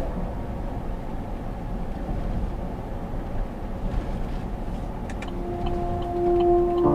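Car on the road: steady engine and tyre rumble, with a few faint ticks.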